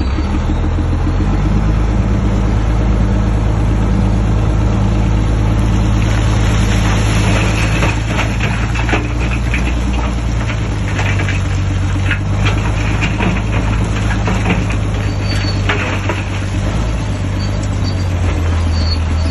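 Diesel engine of a Shantui DH17C3 bulldozer running under load, with a steady low note that shifts pitch slightly around the middle and again near the end. Rattling and scraping clatter runs through the middle of the sound.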